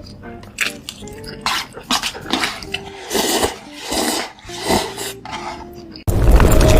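Close-miked mukbang eating sounds: crunchy bites and chewing, with sharp clicks of utensils against dishes. About six seconds in, it cuts abruptly to a much louder, dense noise.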